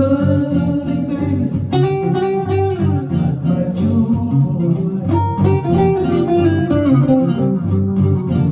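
Blues guitar instrumental played on a 1953 Gibson ES-125 archtop guitar: single-note melody lines over a steady low bass part.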